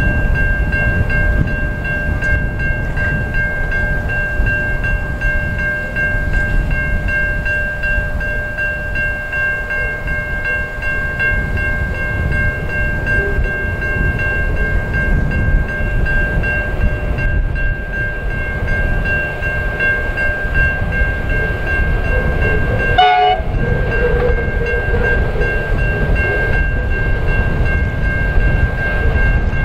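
Diesel freight train locomotives running in strong wind, heavy wind rumble on the microphone, with steady high-pitched ringing tones held over it. The sound breaks off sharply twice, about 23 seconds in and at the end.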